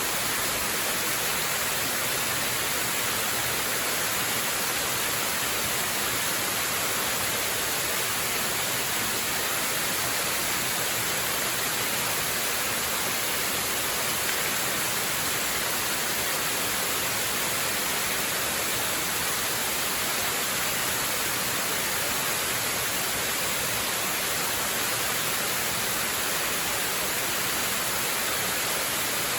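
Waterfall rushing in a steady, unbroken hiss, strongest in the upper range, with no changes.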